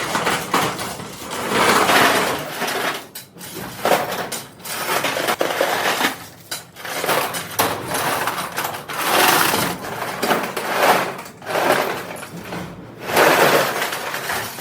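Factory metalworking noise: a loud clatter of metal parts and machinery that changes abruptly every few seconds.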